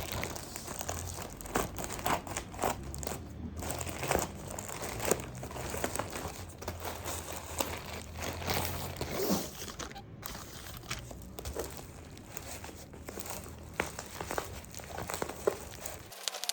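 Packaging being handled and unwrapped by hand: irregular crinkling and rustling with small knocks and the odd tearing sound.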